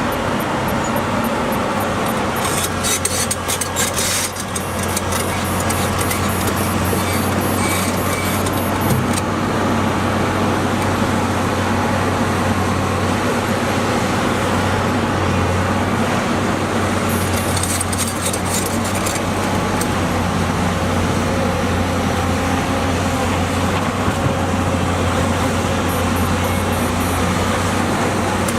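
The diesel engine of an earthmoving machine runs steadily with a low hum. Spells of metallic rattling and scraping come several times, near the start, about nine seconds in, midway and near the end.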